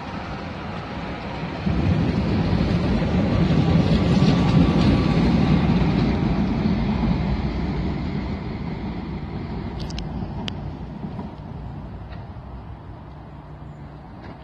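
Tyne and Wear Metrocar electric train pulling away from the platform: a low rumble of wheels and motors that swells suddenly a couple of seconds in, peaks, then fades steadily as the train draws off into the distance.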